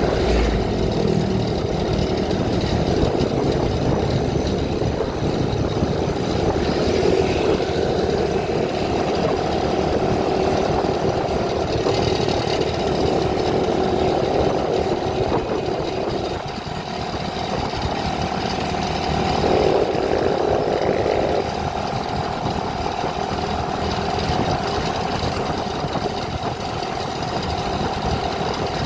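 A vehicle engine running steadily with a buzzy drone. Its note drops about 16 seconds in and picks up again briefly around 20 seconds.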